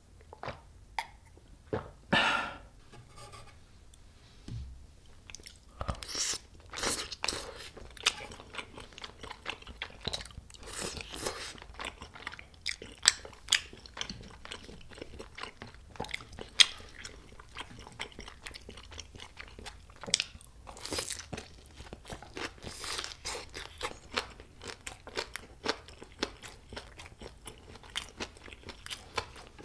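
Close-miked crunching and chewing of deep-fried Korean snacks (twigim), a dense run of crisp crackles and bites. A few separate mouth sounds from a drink come first.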